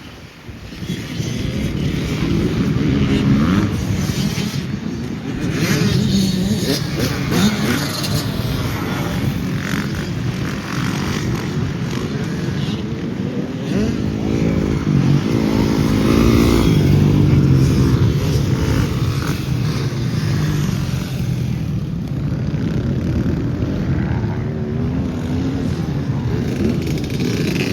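Motocross bike engines revving up and down repeatedly, the pitch rising and falling as the bikes accelerate and ease off.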